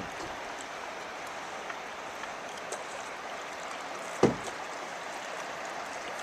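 Steady rush of river rapids, with a single hollow knock about four seconds in.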